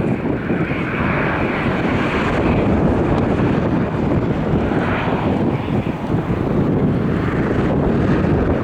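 Airliner engines, a loud steady rush as the plane passes, with wind buffeting the microphone.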